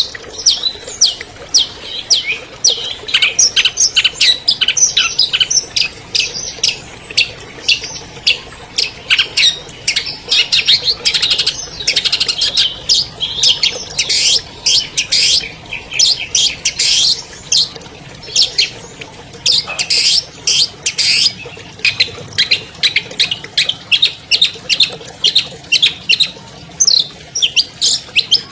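Long-tailed shrike (cendet) singing a fast, unbroken string of high chirps and harsher squawky notes, a varied song full of mimicked phrases.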